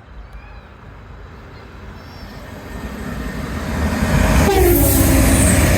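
A train approaching and running through the station, its noise building over the first few seconds and loud from about four seconds in.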